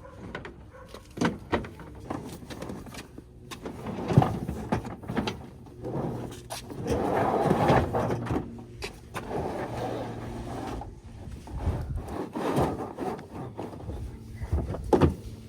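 Irregular knocks and clicks of things being handled, with a longer stretch of rubbing or scraping about seven seconds in.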